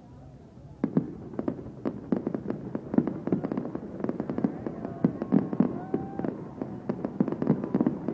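Fireworks going off: after a moment's quiet, a rapid, continuous string of sharp bangs and crackles, many per second.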